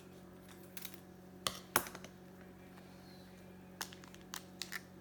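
Baseball cards being handled: a few short, light clicks and rustles, in two small clusters, over a steady low hum.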